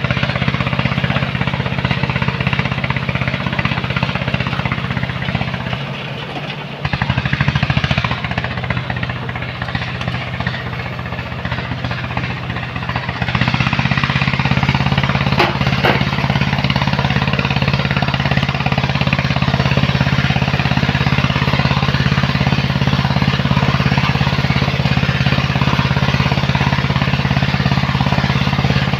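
Heavy diesel machinery loading sand into trucks, its engine running steadily. The engine eases off about six seconds in, then picks up again to a louder, steady note about halfway through.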